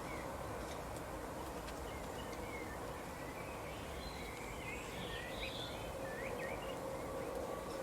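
Songbirds chirping in short, quick calls, thickest in the middle of the stretch, over a steady background hiss.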